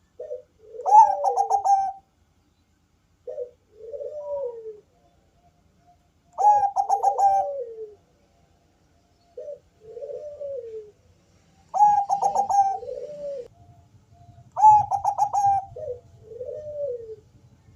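Bangkok-strain zebra dove (perkutut) cooing, a series of repeated phrases. Each phrase is a loud, rolled, trilling note followed by lower, softer falling coos, coming about every three seconds.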